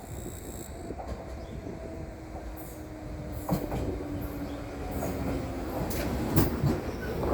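A JR 211 series electric multiple unit approaching and entering the station, its rumble growing louder, with the wheels clicking over rail joints from about halfway in.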